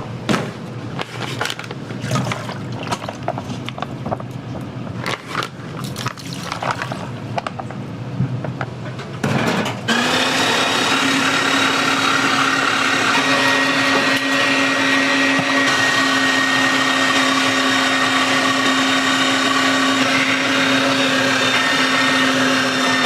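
Kitchen clatter of irregular knocks and clicks, then an electric motor of a kitchen appliance such as a blender or mixer switches on about ten seconds in and runs at a steady pitch for about thirteen seconds before cutting off.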